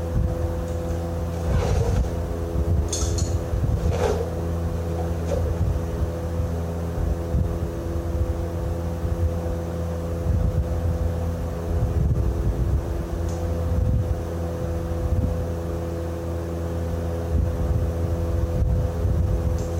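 A steady mechanical drone, an engine or machine running at an even speed. A few light metal clinks or knocks come in the first few seconds and once more near the middle.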